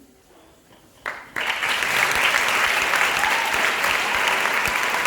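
A hush of about a second, then an audience breaks into applause, which goes on steadily.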